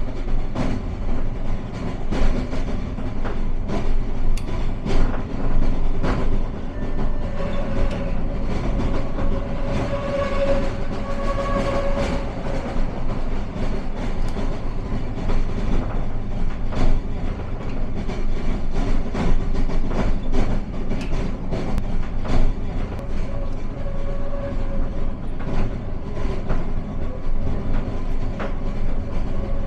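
Aigle–Leysin rack railway train running, a steady rumble broken by frequent sharp clicks and knocks from wheels over the track. A higher held tone rises out of the noise around a third of the way through, and again briefly later and near the end.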